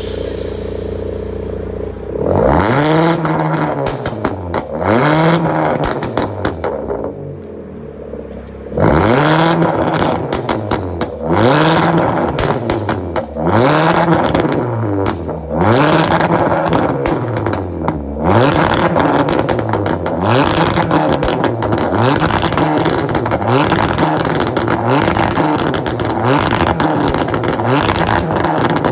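Car engine idling, then revved hard over and over, each rev rising and falling in pitch about every two seconds, until in the second half it is held high almost without a break.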